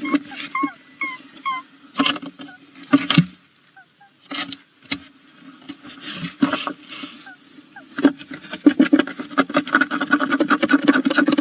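Tawny owl moving about inside a wooden nestbox: sharp knocks and scraping on the box floor, then from about eight seconds in a long spell of rapid scratching and rustling, as when the owl works the nest scrape.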